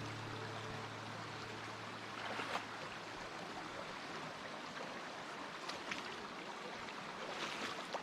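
Steady rush of flowing water from a stream or waterfall, with the tail of background music fading out in the first second.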